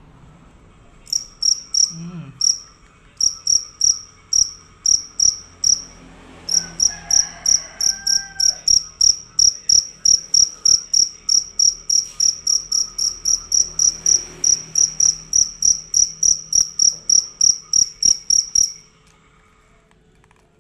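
A male jangkrik field cricket chirping loudly in a long, even series of high-pitched chirps, about three a second. It starts about a second in, breaks briefly near the middle of its run, then stops abruptly near the end.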